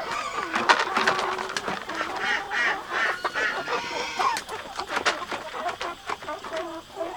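Farmyard poultry calling in a run of short repeated calls, with many sharp clicks and knocks throughout.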